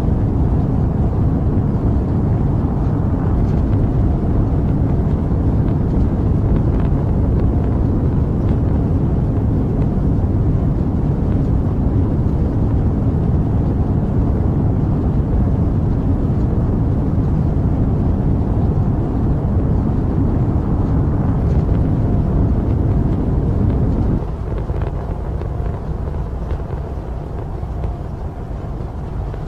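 Rocket engine rumble: a deep, steady, noisy roar. Near the end it drops suddenly to a quieter, duller rumble.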